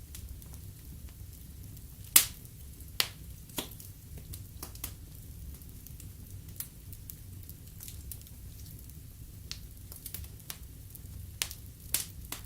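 Fireplace fire crackling: irregular sharp pops and snaps over a low steady rumble, the loudest pop about two seconds in and a few more near the end.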